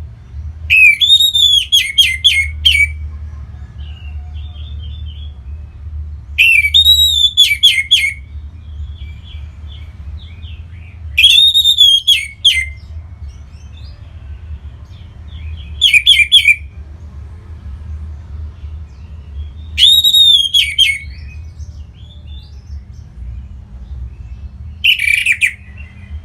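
Orange-headed thrush singing: six loud song phrases of arched, repeated whistled notes, one about every four to five seconds, over a steady low hum.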